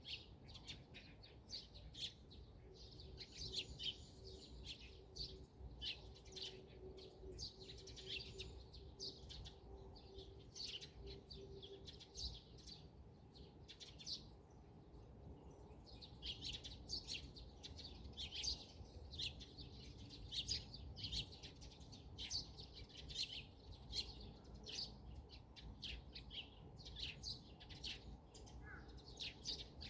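Several songbirds chirping and singing in quick, overlapping high-pitched phrases, over a faint low background rumble.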